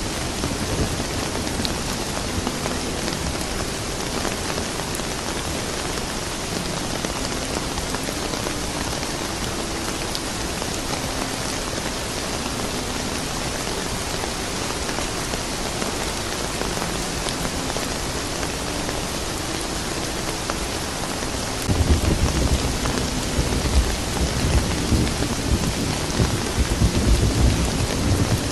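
Steady rain falling. About three-quarters of the way in, a deep rolling rumble of thunder starts suddenly and keeps going.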